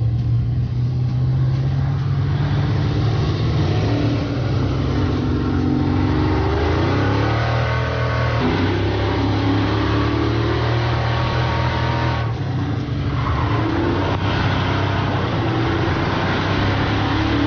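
A vehicle engine accelerating under load, its pitch climbing and then dropping sharply at gear shifts about 8 and 12 seconds in, before climbing again.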